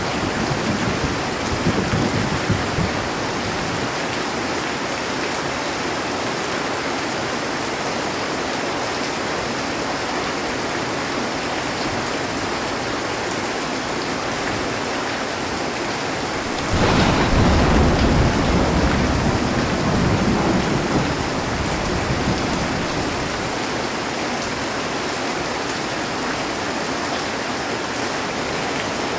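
Heavy rain drumming steadily on a metal roof, a continuous hiss. A thunder rumble dies away in the first few seconds, and a fresh peal of thunder breaks in suddenly about halfway through and rumbles for about five seconds.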